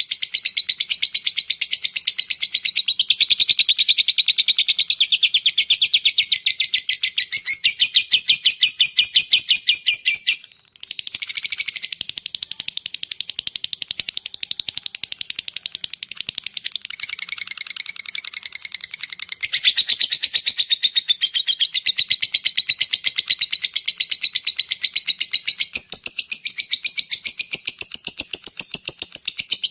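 Lovebird giving its long chattering trill (ngekek), a fast, unbroken string of high chirps with one brief pause about ten seconds in.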